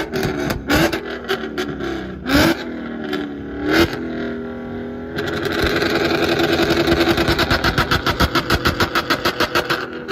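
Performance car engine revving: several sharp throttle blips with crackles, then a sustained high-rev run with a rapid, even pulsing from about halfway through.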